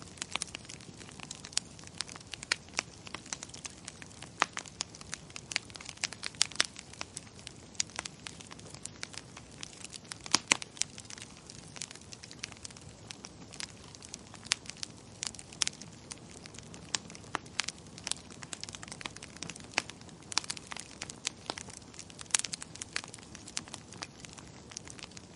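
Wood fire crackling in a fireplace: irregular sharp pops and snaps, some in quick clusters, over a soft steady hiss.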